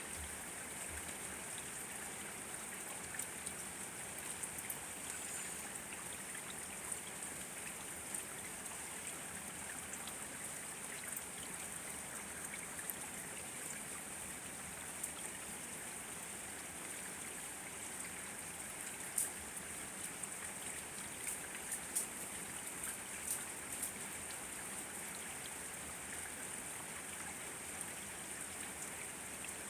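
Steady rain hissing, with scattered drops ticking and a few louder drop hits a little past the middle.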